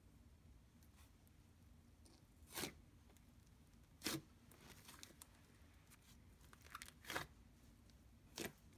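A large mixed batch of slime being handled: about five short, faint sounds, one or two seconds apart, against near silence.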